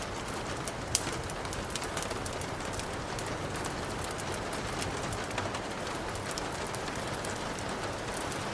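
Steady rain hiss mixed with the frequent small crackles and pops of a burning fire, one louder pop about a second in.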